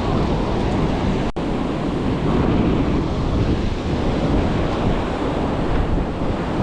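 Wind buffeting the microphone over the steady wash of ocean surf, with a split-second dropout about a second in.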